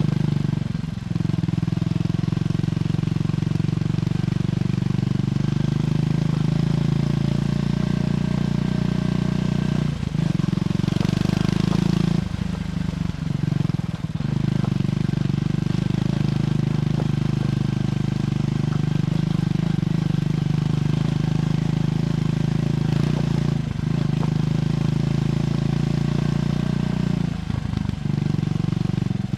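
Triumph Scrambler 400X's single-cylinder engine through its stock exhaust, running steadily under way on the road. The engine note dips briefly several times, around one, ten, thirteen, twenty-three and twenty-eight seconds in.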